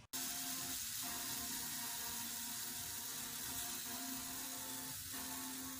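Pancake batter sizzling in a hot frying pan: a steady, even hiss.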